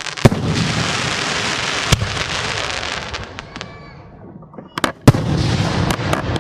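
Professional aerial fireworks going off: sharp shell bursts with dense crackle between them. The crackle fades to a brief lull about four seconds in, then a loud burst about five seconds in sets off another round of crackling.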